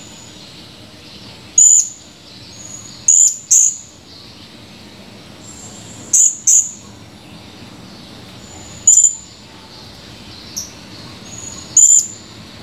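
Blue-crowned hanging parrot (serindit) giving sharp, very high-pitched chirps, seven in all, singly and in quick pairs every few seconds, over a faint steady hiss.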